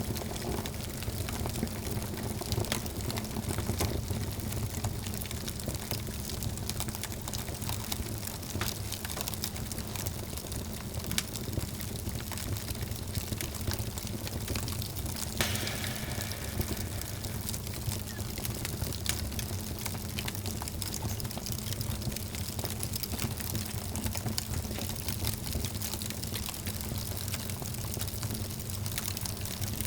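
Wood fire burning in a fireplace, crackling and popping steadily over a low rumble of the flames, with a short hiss about halfway through.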